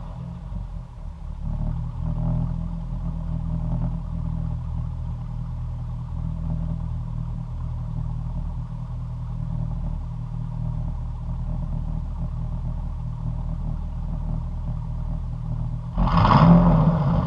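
Chevy Silverado V8 idling through a muffler-delete exhaust with the catalytic converters still fitted. It runs with a steady low rumble, then revs up briefly near the end.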